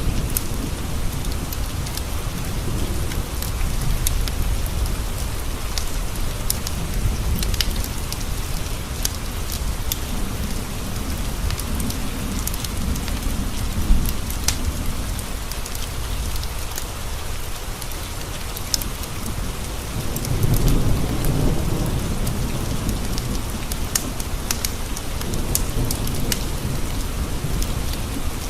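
Steady rain on a window with low rolls of thunder that swell and fade several times, the strongest about two-thirds of the way through. Sharp ticks are scattered through it.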